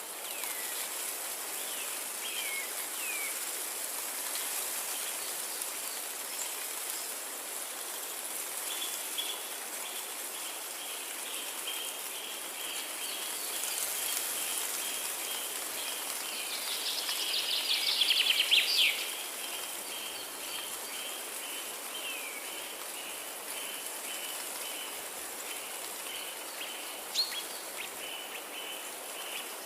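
Forest ambience: a steady hiss under birdsong, with a few short falling chirps near the start, a long series of short repeated high notes from about nine seconds in, a louder burst of song around eighteen seconds, and a single sharp tick near the end.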